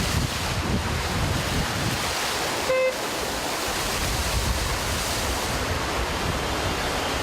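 Floodwater from a burst water main rushing across a street, a steady loud rush with heavy low rumble. About three seconds in, a car horn gives one short beep.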